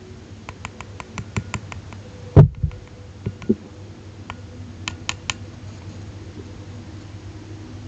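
Light clicking and tapping of hard objects: a quick run of about eight clicks, one loud thump about two and a half seconds in, then a few more knocks and clicks.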